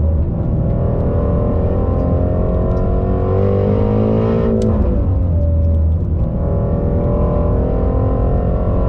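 Car engine heard from inside the cabin, pulling hard with its pitch rising. About halfway through it drops off sharply with a click, then climbs again.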